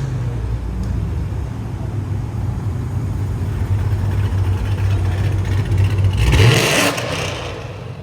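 Car engine running with a steady low drone; about six seconds in it revs up sharply into a loud rush, the loudest moment, then falls away.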